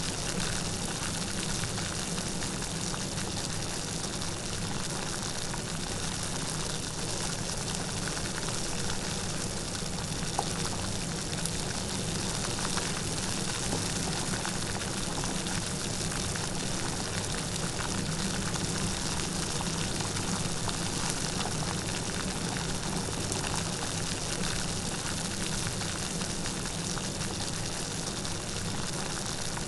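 Light rain falling steadily, a dense, even sound of many small drops with no thunder.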